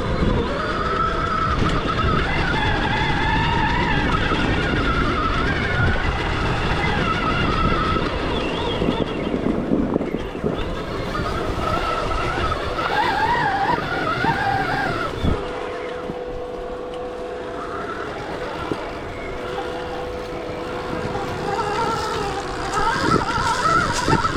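Stark Varg EX electric dirt bike riding off-road: the electric motor's whine rises and falls in pitch with the throttle over a heavy rumble of the bike on rough ground. About two-thirds of the way through it goes quieter, with a steady hum, then the whine picks up again near the end.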